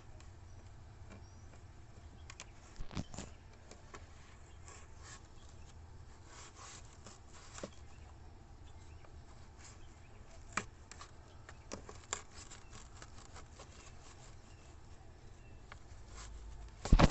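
Scattered clicks, knocks and rubbing as a car's cabin air filter is worked loose and pulled out of its housing, with one much louder knock near the end.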